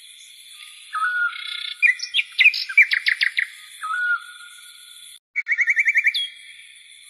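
Songbirds calling. A short whistled note repeats about every three seconds, and there are two bursts of fast chirping trills, all over a steady high-pitched drone.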